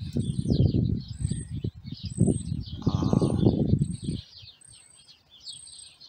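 Small birds chirping outdoors: a short high note repeats about once a second over busier twittering. A louder low rumble runs under it for the first four seconds and stops abruptly.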